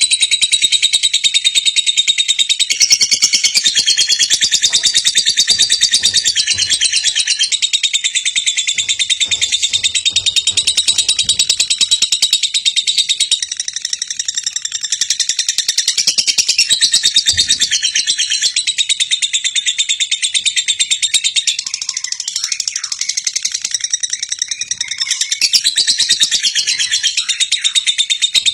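A lovebird's ngekek: one long, unbroken, high-pitched chattering trill of very rapid notes, held at a steady strength.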